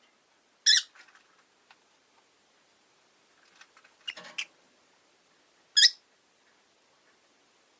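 Rosy-faced lovebirds giving short, shrill chirps: one about a second in, a quick double chirp around four seconds, and another just before six seconds, with faint small clicks between.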